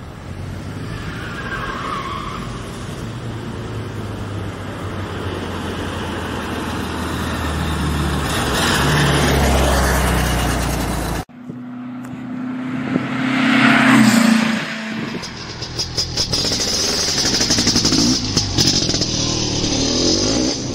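Air-cooled VW Beetle engine as the car drives by, growing louder over the first ten seconds. It breaks off suddenly, and then a second pass follows with the engine revving up.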